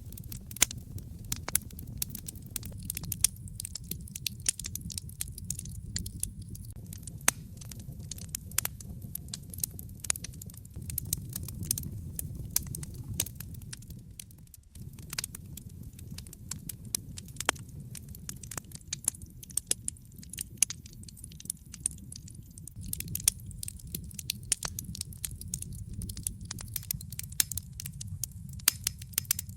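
Wood fire in a fireplace crackling, with many small irregular pops and snaps over a low, steady rumble of the flames.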